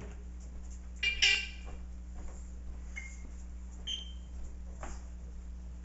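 African grey parrot giving one loud, shrill call about a second in, then a few short, high, whistled beeps.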